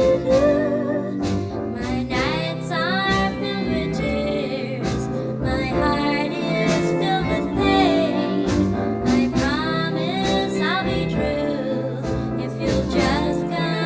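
Early-1960s pop ballad record: a female lead voice sings with gliding, held notes over a backing band of guitar and drums.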